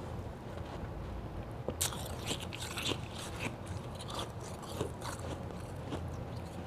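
A person bites and chews white ice close to the microphone. The crunching starts about two seconds in and goes on as a quick run of sharp cracks and crackles.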